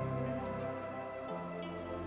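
Soft, slow new-age background music: sustained pad chords over a low bass note that shifts to a new note about halfway through.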